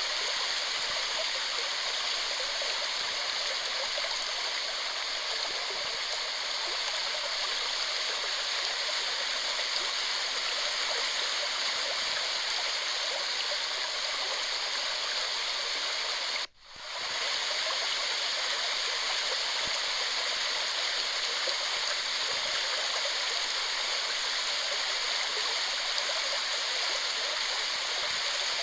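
Waterfall, water falling and rushing steadily. Just past the middle the sound cuts out for an instant and swells back over about a second.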